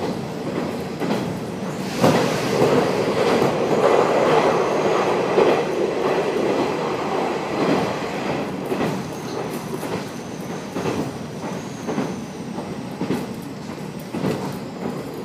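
KiHa 47 diesel railcar running at speed, heard from inside the carriage: steady running rumble with the wheels clicking over rail joints. It grows louder about two seconds in and stays so for several seconds while the train passes through a short tunnel, with a faint high wheel squeal now and then.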